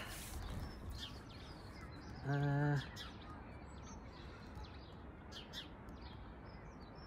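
Small birds chirping intermittently over steady outdoor background noise, with one short, flat-pitched hum from a man's voice a little over two seconds in.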